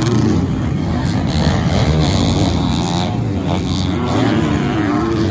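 Several 250cc four-stroke motocross bikes running on the track, their engines revving up and down through the gears.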